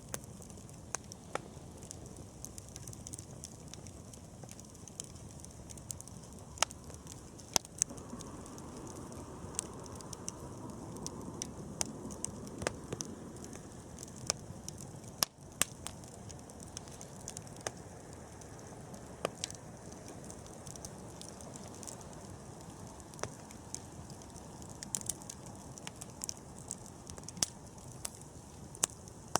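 Wood campfire burning, crackling with frequent sharp pops over a steady low rush. A louder swell of the rush comes for several seconds about eight seconds in.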